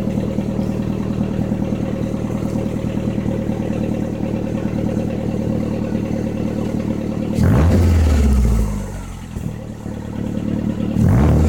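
1999 Ford Escort ZX2's 2.0-litre Zetec four-cylinder running through a straight-piped exhaust with a new tip: idling steadily, then revved sharply about seven seconds in and falling back over a couple of seconds, and revved again near the end. The revs are loud.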